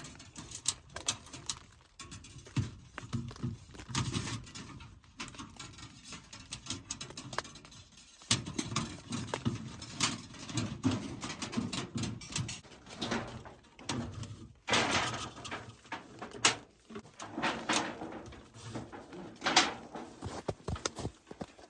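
Irregular clicks, knocks and rustling, with a few louder rustling swells in the second half.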